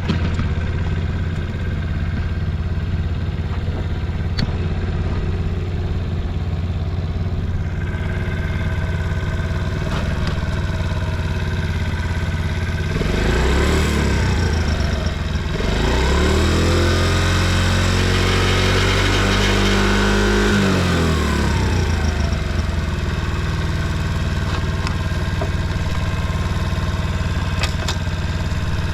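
Early-model Honda Motra's 49 cc single-cylinder four-stroke engine idling steadily, briefly blipped about halfway through, then revved up and held for several seconds before dropping back to idle. It runs smoothly with no abnormal noise, which the seller calls quiet.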